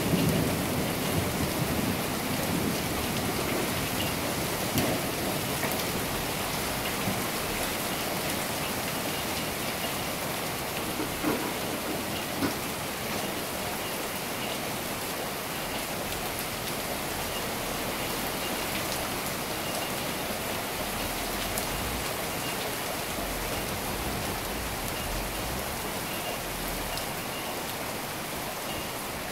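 Heavy rain falling steadily in a thunderstorm downpour. The last of a low thunder rumble dies away over the first few seconds.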